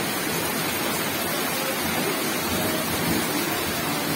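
Heavy rain falling steadily on a paved road, an even, unbroken hiss.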